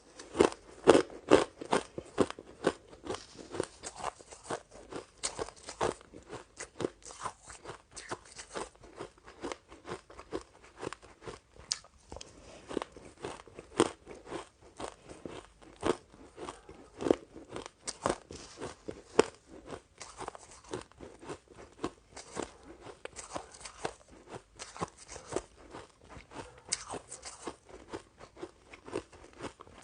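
A person biting and chewing crunchy shaved ice, with dense, irregular crunches and crackles that start abruptly and never let up.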